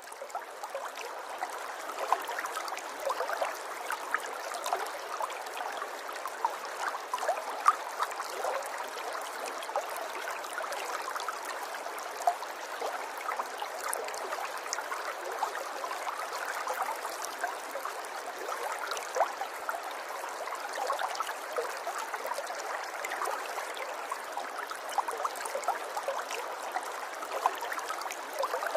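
River water flowing over shallows, a steady babble of small splashes and gurgles.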